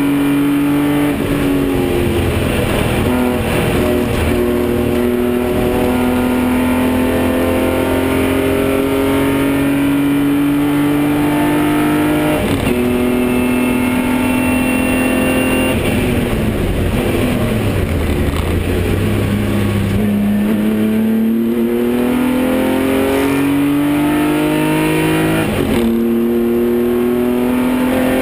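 BMW 325i straight-six race engine running hard, heard from inside the cabin. Its pitch climbs steadily and drops at upshifts about twelve seconds in and near the end; midway it falls as the car slows, then climbs again.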